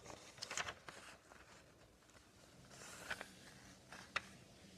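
Faint rustling and a few soft crackles of a sheet of paper being folded in half lengthwise and creased, with short separate crackles about half a second in, near three seconds and just after four seconds.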